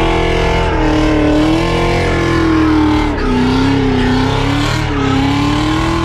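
A car engine held at high revs, its note steady with a slight wobble, sagging a little about three seconds in and climbing again near the end.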